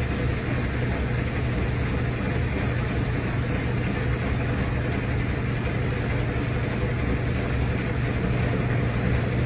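RCA RPW302 portable top-load washing machine running its final spin cycle: a steady, even motor hum with a low drone that holds without change.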